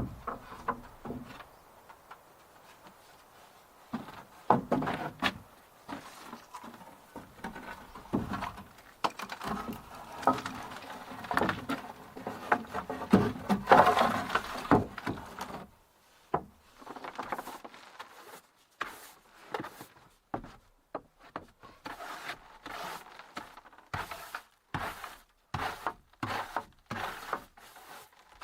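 Wood being worked by hand: irregular knocks and scraping, then from about 16 seconds in a steady run of sharp strikes, roughly two a second.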